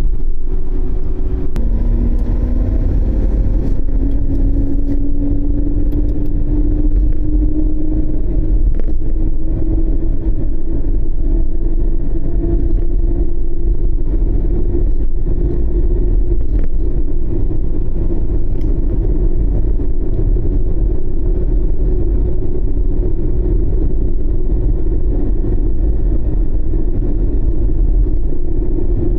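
A small vehicle driving, with a steady low rumble of engine and road noise. The engine note rises slowly for the first dozen seconds, as when gathering speed, then holds steady.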